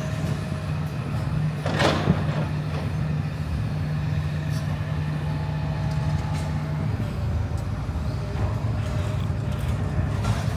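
Demolition machinery's diesel engine running steadily, with a few sharp knocks as big concrete blocks are broken up.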